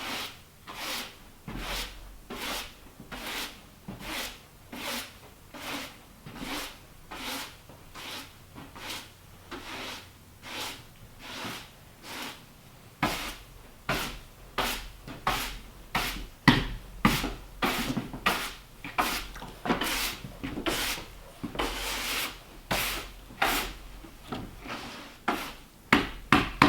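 A hand tool working wood in steady, even strokes, a little over one a second, each a rasping scrape. The strokes get louder about halfway through.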